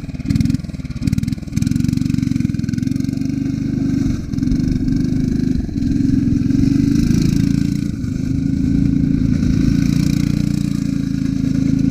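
The 8 hp engine of a 1960s Rupp go-kart running hard under throttle. Its sound drops briefly a few times in the first second and a half, then holds a steady high run.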